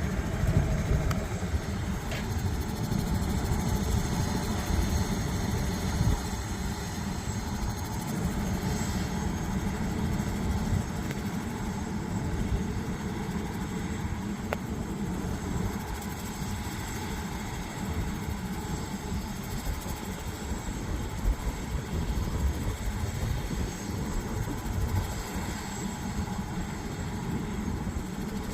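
Medical helicopter running, a steady rotor and turbine-engine noise with most of its weight in the low end.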